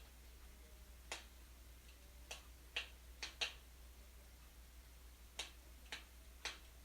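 Wood fire in a fireplace crackling: about eight sharp, irregular pops and snaps, several in quick succession around the middle, over a faint steady low hum.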